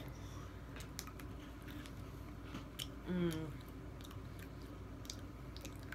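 Faint crunching and chewing of chocolate-coated Pocky biscuit sticks: scattered small crisp crunches. A short hummed 'mm' about three seconds in.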